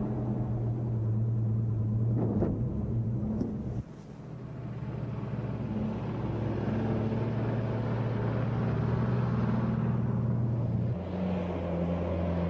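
Vehicle engine running steadily, with a low drone that dips briefly about four seconds in and shifts in pitch near the end.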